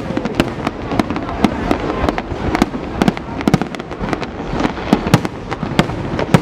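Fireworks going off in a dense, irregular barrage of bangs and crackling pops, several a second.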